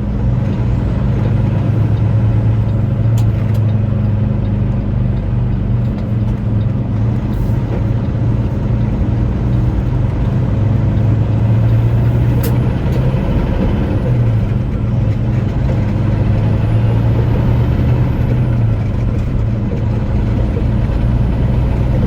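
Truck engine running steadily under way, a low constant drone heard from inside the cab, with a couple of faint clicks.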